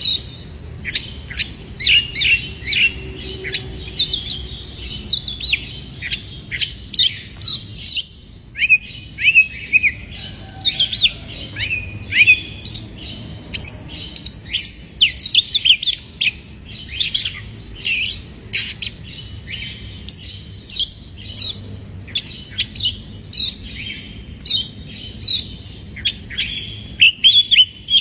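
Oriental magpie-robin (kacer) singing a fast, busy string of short, sharp chirps and whistled slurs that runs on without a break.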